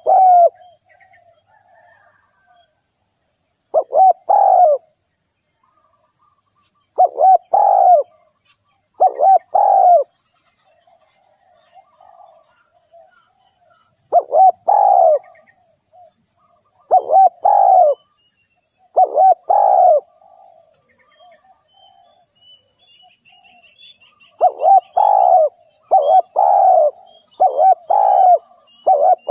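Spotted dove cooing in short phrases of two or three low coos, repeated every few seconds and coming closer together near the end. This is the call of a decoy dove used to lure wild doves.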